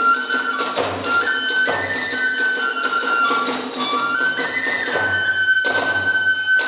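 Kagura hayashi: a bamboo transverse flute plays a stepping melody over regular drum beats and sharp hand-cymbal strikes, ending on a long held flute note as the percussion stops.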